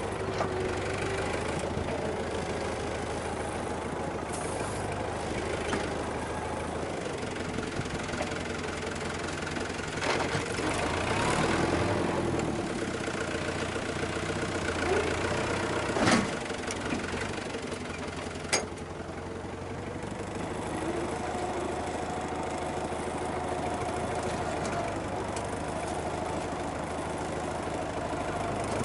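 Farm tractor engine running steadily, with a few sharp knocks about halfway through.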